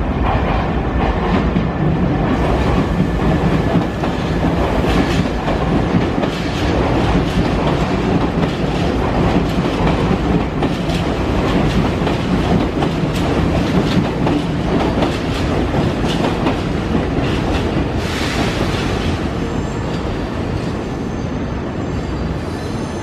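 Nankai 7100-series electric train rolling slowly through station pointwork, its wheels clattering over rail joints and switches. Near the end, faint thin high tones join the clatter as a light wheel squeal on the curves.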